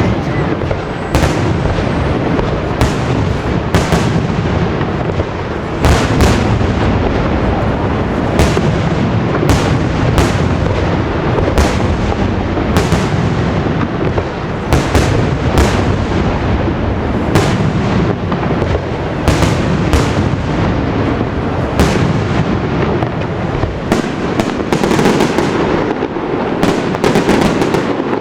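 Aerial fireworks display: shell bursts going off continuously over a rolling rumble, with sharp bangs about once a second and a rapid run of crackling reports near the end.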